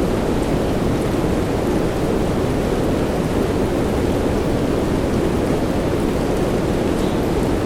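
Steady soft rain mixed with white noise: an even, deep and muffled hiss with no let-up, and a few faint drop ticks.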